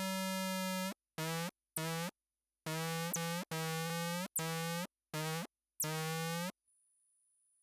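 Electromagnetic interference picked up underwater: an electrical buzz with a low steady hum and many overtones. It cuts out about a second in, then switches on and off in about seven short bursts, each swooping up in pitch as it starts. Near the end only a faint high whine is left.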